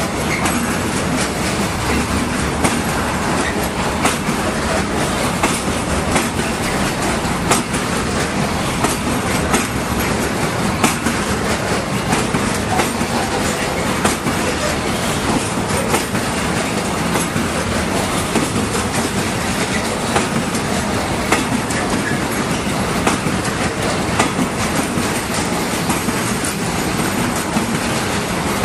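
Container freight train's loaded flat wagons rolling past close by: a constant rumble of steel wheels on rail, broken by a steady run of sharp clicks and clanks as the wheels cross rail joints.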